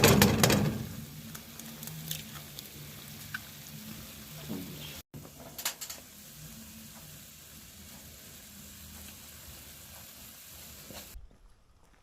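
Food sizzling in a pan on a wood-burning cook stove, with a steady hiss and small pops. A loud clatter of a utensil against the pan comes in the first second.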